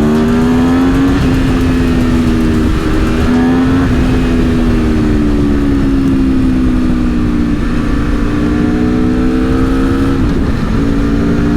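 Aprilia Tuono V4 motorcycle's V4 engine under way, its pitch climbing and dropping back at gear changes, with a longer easing off in the middle before it pulls up again. A heavy rumble of wind noise runs under it.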